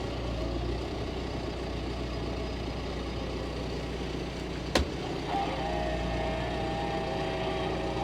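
Farm tractor's engine running steadily, heard from the cab, with a sharp click about five seconds in and a steady higher whine joining soon after.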